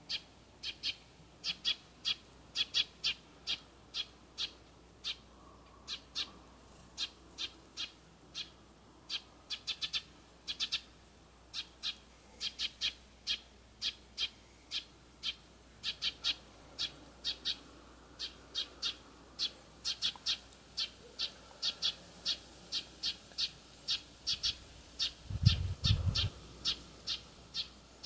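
A bird chirping over and over, short sharp chirps in uneven runs of about two to three a second. A brief low thump comes near the end.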